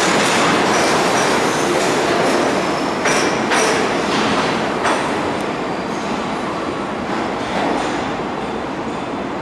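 Subway refuse train of R33WF work motors and R134 garbage cars rolling through an underground station, steel wheels clattering over rail joints with a few sharp clacks and a faint high wheel squeal. The noise eases off slightly toward the end.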